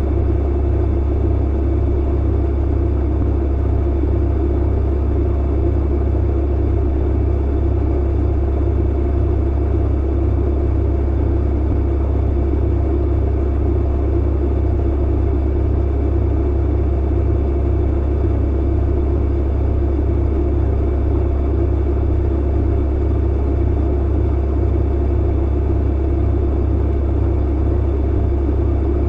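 Clothes dryer running: a steady low hum and rumble that goes on without a break.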